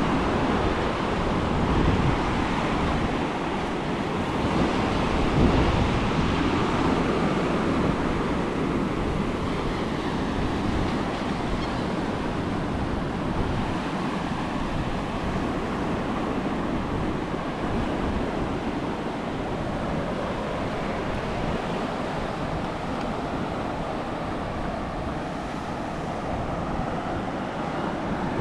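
Ocean surf washing onto the beach as a steady rush, with wind rumbling on the microphone.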